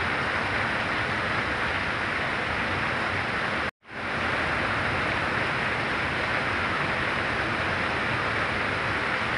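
Heavy rain pouring down steadily as a dense, even hiss. A little before four seconds in it cuts out completely for a moment, then swells back in.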